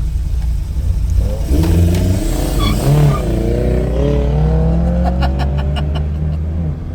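Car engine running and revving, its pitch rising and falling, then climbing steadily over the last couple of seconds. A quick run of clicks comes about five seconds in.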